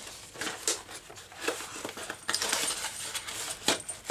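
Plastic packaging rustling, with irregular clicks and taps of hard plastic, as a desoldering gun is unwrapped and handled.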